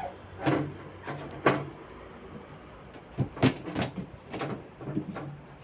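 A series of separate knocks and clatters, about seven in all, from items and fittings being handled and set down while a refrigerator is cleaned out.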